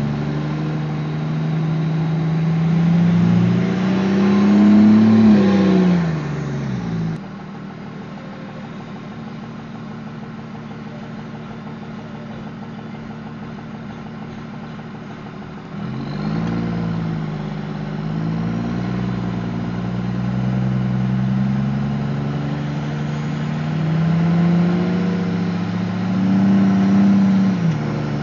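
Vehicle engine on the road, its pitch climbing steadily as it accelerates and then dropping back. About seven seconds in, it cuts abruptly to a quieter, steady engine drone. Near sixteen seconds it cuts back to a second long climb in pitch that falls away near the end.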